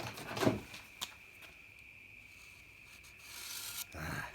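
A felt marker rubbed along the steel leading edge of a reel mower's bed knife to mark it out for filing. It makes short scraping rubs, with a click about a second in and a longer hissy rub near the end.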